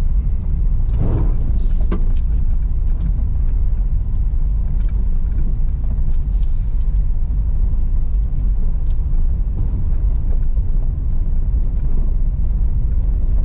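Car driving on a rough, rocky dirt road: a steady low rumble of engine and tyres, with a few scattered small knocks and rattles.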